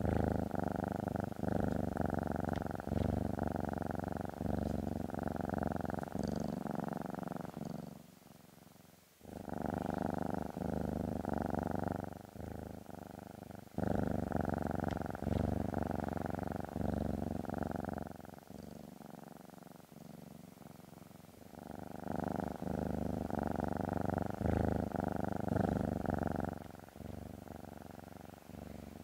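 Domestic cat purring, a recording dubbed over the picture, in long loud stretches with a short dip about eight seconds in, a brief break around the middle, and a quieter spell after it before it swells again.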